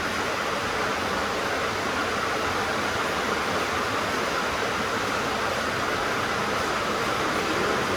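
Steady heavy rain drumming on a tin roof, an even dense patter with no breaks.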